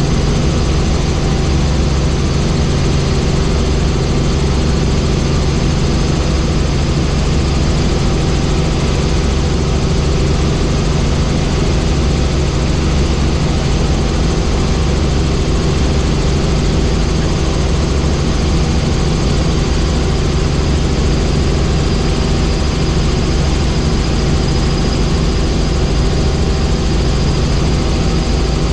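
Helicopter engine and rotor running steadily in flight: a loud, constant drone with thin steady whines above it.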